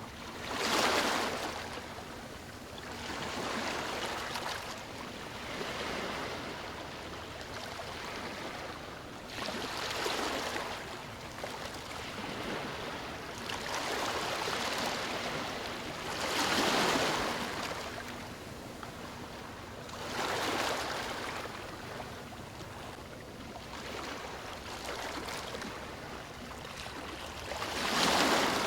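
Sea waves washing onto a beach, the surf swelling and falling away every few seconds, with the biggest breakers about a second in, just past the middle and near the end.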